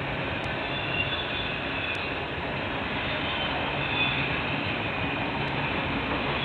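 Train rolling past a trackside webcam microphone: a steady rumbling noise of the cars on the rails, with a few faint higher tones coming and going.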